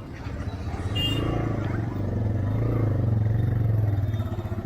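Motorcycle engine running as the bike rides along a busy street, a steady low drone that swells in the second half, with a brief high tone about a second in.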